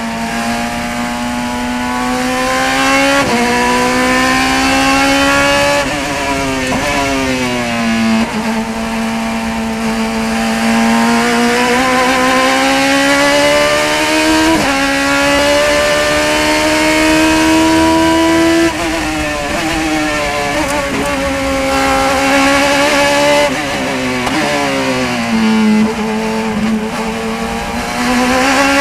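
Race car engine pulling hard through the gears, its pitch climbing and dropping sharply at each quick upshift, then falling away as the car slows for corners, over about half a minute of continuous running.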